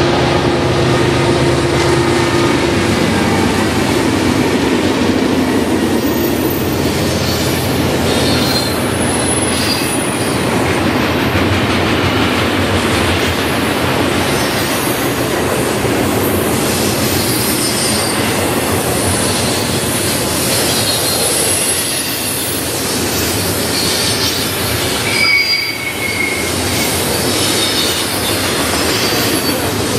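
BNSF double-stack intermodal freight train passing close by. For the first few seconds the lead diesel locomotives' engines drone steadily. Then the loaded well cars roll past with a steady noise of steel wheels on rail and scattered high wheel squeals.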